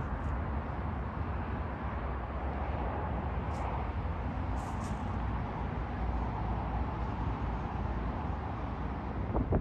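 Steady outdoor background noise: a low rumble with a hiss over it, no distinct events.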